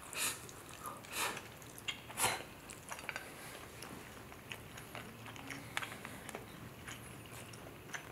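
Close-miked chewing of a mouthful of instant black bean noodles: soft wet mouth clicks and smacks, with three louder smacks in the first couple of seconds.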